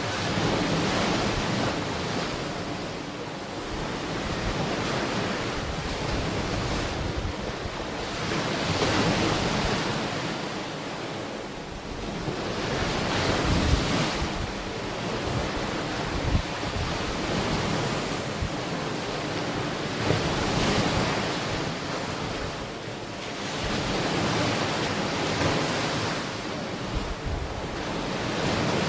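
Ocean waves breaking and washing onto a shore, the surf swelling and easing every few seconds, with wind buffeting the microphone in low rumbles.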